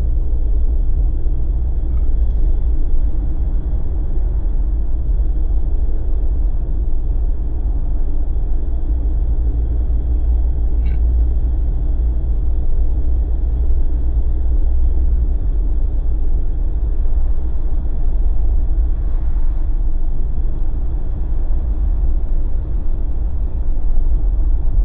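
Jeep driving at a steady pace: a continuous low rumble of engine and tyre road noise.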